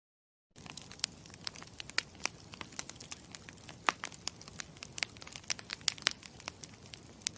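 Campfire crackling: irregular sharp pops and snaps over a low steady hiss of burning, starting suddenly about half a second in.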